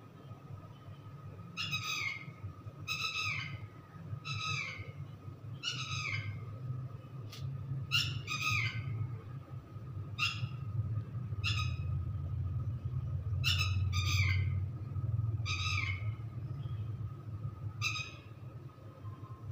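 Repeated short bird-like calls, each slightly falling in pitch, coming roughly every one to two seconds over a low steady hum.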